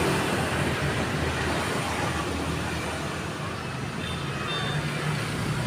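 Steady road traffic: a continuous hum of vehicle engines and tyre noise, with no sudden events.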